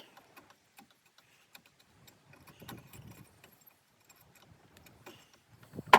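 Scattered light metallic clicks and taps of pliers on the chainsaw muffler's sheet-metal fins as they are bent open, with one sharp click near the end.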